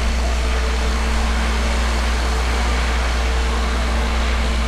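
Steady low rumble with a faint, even machine hum over it, unchanging throughout.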